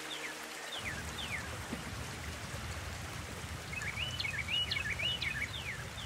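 A songbird singing two short runs of quick chirps and downward slurs, the second near the end, over a steady rushing outdoor background.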